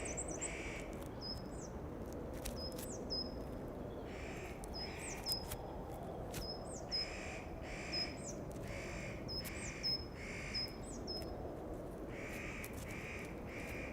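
Wild birds calling: short harsh crow-like caws in groups of two or three, with a thin high whistled note repeating about once a second, over a low steady outdoor background.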